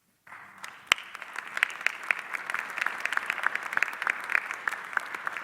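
Audience applauding, a dense patter of many hands clapping that starts a moment in and stays steady.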